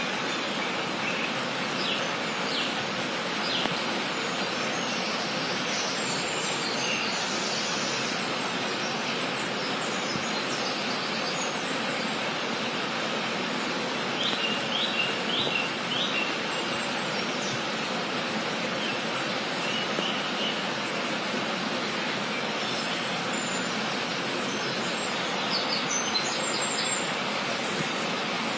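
Steady rushing outdoor noise with a small bird chirping over it: a few short runs of quick high notes near the start, about halfway through and near the end.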